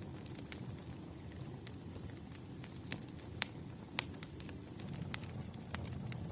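Wood fire burning: a steady low rumble of flames with irregular sharp crackles and pops from the burning logs, two of them louder near the middle.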